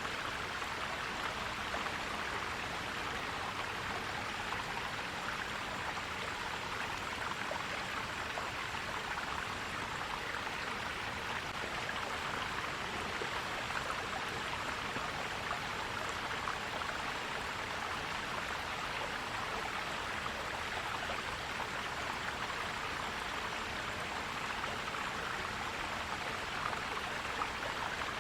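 Stream water flowing and gurgling over rocks, a steady even rush.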